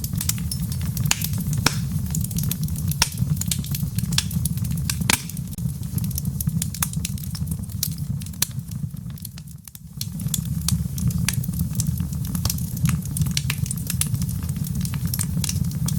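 Wood fire burning in a fireplace, crackling with many sharp pops over a steady low rumble, briefly quieter about two-thirds of the way through.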